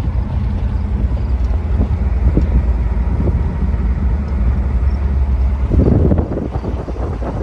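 Car on the move, a steady low engine and road rumble, swelling louder briefly about six seconds in.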